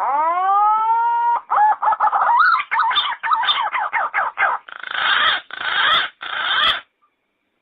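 Yellow-footed green pigeon calling: a long whistled note that rises and then holds, followed by a run of quick warbling whistles and three harsh, rough notes near the end.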